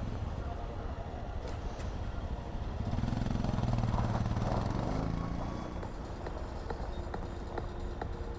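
Motorcycle engine running at low speed over a rough road, swelling louder for a couple of seconds in the middle as the revs rise and fall.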